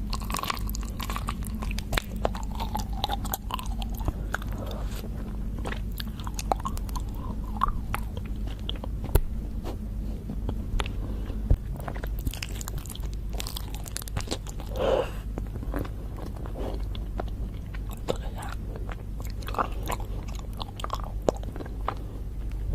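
Close-up chewing of raw honeycomb: irregular, sticky crackles and clicks of beeswax comb being bitten and chewed.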